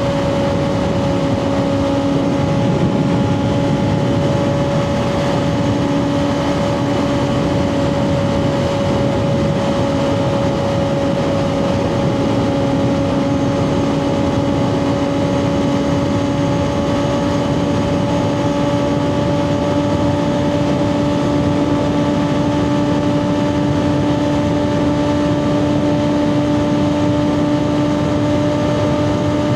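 2024 Kawasaki ZX6R's inline-four engine through a Two Brothers slip-on exhaust, running at a steady high rpm while cruising. The pitch holds nearly constant and rises only slightly through the stretch, over a steady rush of wind and road noise.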